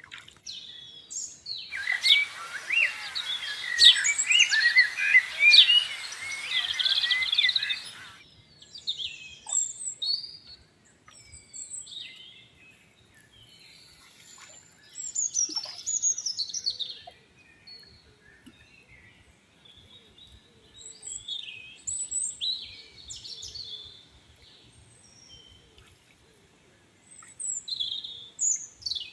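Many small birds chirping and calling: a loud, dense chorus of overlapping chirps for about six seconds, starting and stopping suddenly, then scattered single chirps and short calls.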